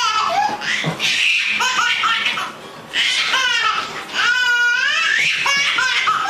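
High-pitched laughter-like vocalizing in several bursts, the pitch arching and sliding, with runs of quick short rising notes.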